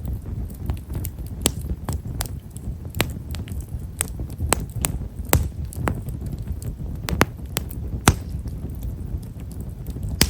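Himeshara (tall stewartia) firewood burning in an open fire, crackling with small, sharp pops at irregular intervals, roughly one or two a second, over a low steady rumble of flame. The pops are fine and quiet, typical of this wood.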